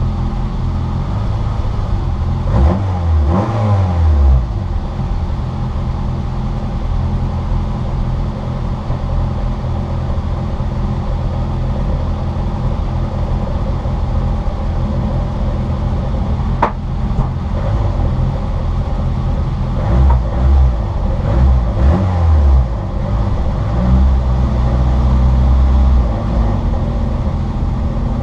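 Citroën Saxo VTR's four-cylinder engine running hard under racing load, heard from inside the car, its pitch sweeping a few seconds in. Loud low rumbling bursts come near the end, with a single sharp click just past the middle.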